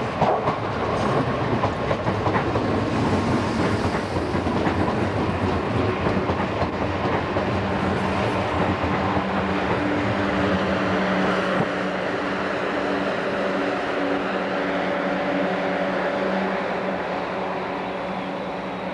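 Eurostar Class 373 electric trainset running past on the rails: a steady rumble of wheels on track, with clatter over the pointwork in the first few seconds and a low steady hum joining in about eight seconds in.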